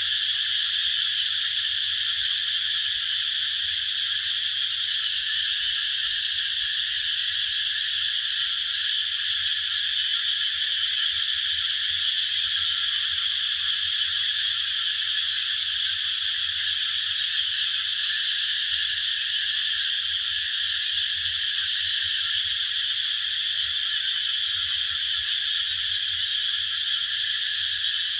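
A dense, steady chorus of calling animals, high-pitched and unbroken, with no separate song phrases standing out.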